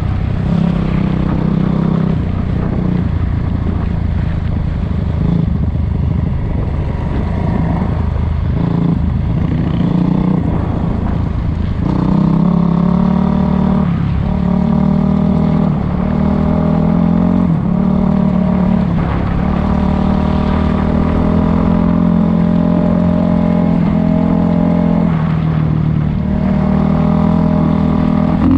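Dirt bike engine running continuously under way. Its pitch holds fairly steady, then from about twelve seconds in it drops and climbs several times as the throttle and gears change.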